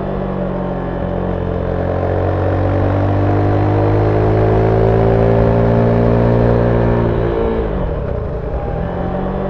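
Zontes 310V single-cylinder engine through its stock exhaust, heard onboard while riding. The engine note climbs slowly under steady throttle, drops sharply about seven seconds in, then picks up again near the end.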